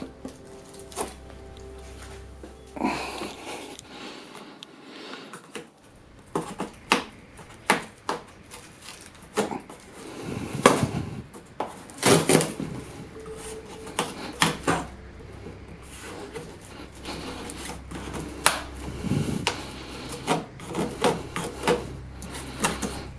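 Unpacking a fridge from its box: irregular knocks, thuds and rubbing scrapes as the box, packaging and the fridge are handled.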